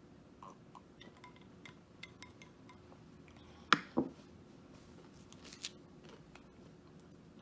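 Eating sounds from a fried-food meal: light clicks and taps, then two sharp crunchy snaps close together near the middle, and a short rustle a little later.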